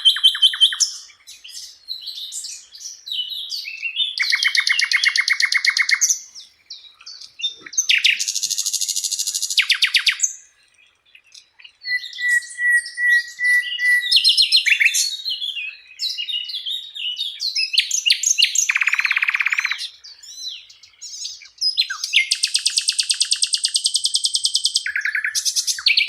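Sikatan londo (a flycatcher kept as a songbird) singing a long, varied song: high chirps and warbled notes alternating with fast buzzy trills and rattles, delivered in phrases a few seconds long with brief pauses between them.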